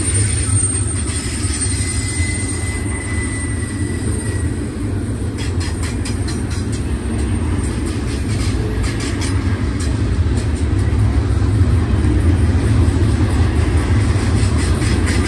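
Double-stack intermodal freight train's well cars rolling past on curved track: a steady low rumble of steel wheels on rail. A faint high wheel squeal sounds in the first few seconds, and a stretch of rapid clicks comes about halfway through.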